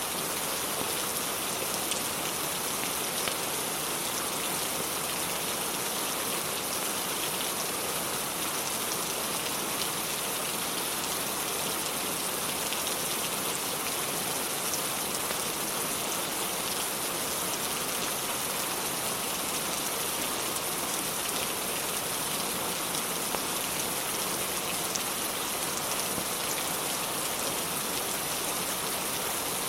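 Steady rain falling and pattering on surfaces, even and unbroken, with a wood fire crackling faintly underneath.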